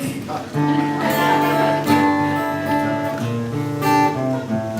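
Acoustic guitar playing strummed chords as an instrumental break between sung verses, with a few harder strums ringing out.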